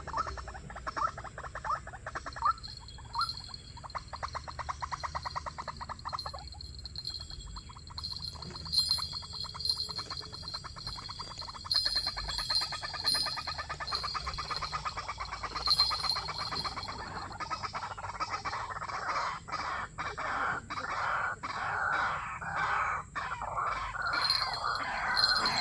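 White-breasted waterhens calling: long series of rapid repeated notes that grow louder and harsher through the second half.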